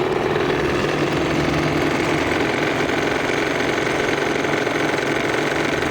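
Bassett-Lowke live-steam engine of a model boat running steadily at speed on about 25 to 30 psi of steam, a fast, even mechanical beat.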